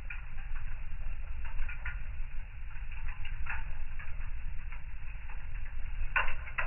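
Wood fire in a fireplace crackling: irregular snaps and ticks over a low steady rumble, with a louder pop near the end.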